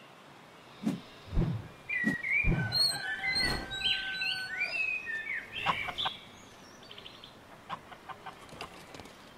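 Birds chirping and calling in quick rising and falling notes, busiest in the first six seconds and then fainter, with three low thumps in the first four seconds.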